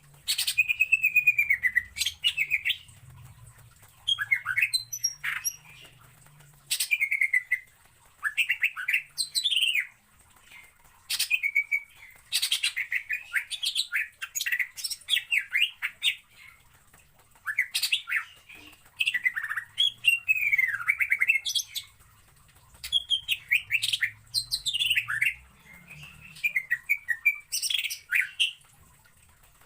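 Cucak ijo (green leafbird) singing: a string of loud phrases a second or two long, made of quick sweeping notes and rapid trills, with short pauses between them.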